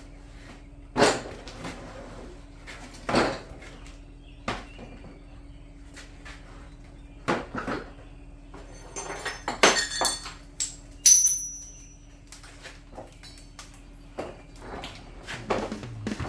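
Scattered metal clanks and knocks as a riding mower is handled and moved, with a brief high metallic ring about eleven seconds in. A steady low hum runs underneath and stops near the end.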